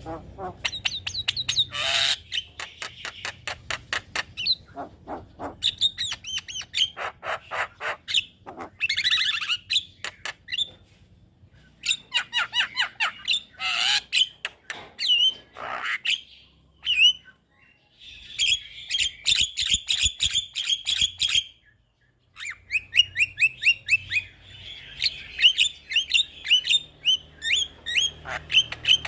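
Javan myna (jalak kebo) singing: fast runs of sharp clicking notes and high chattering squawks that repeat for several seconds at a time, broken by two short pauses.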